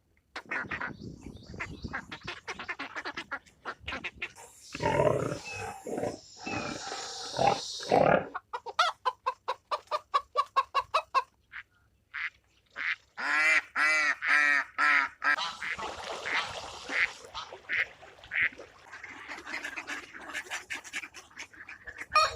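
Domestic fowl calling, with geese honking among them, in a run of short clips. The calls change in character every few seconds, including a fast series of repeated calls and a group of loud, pitched honks near the middle.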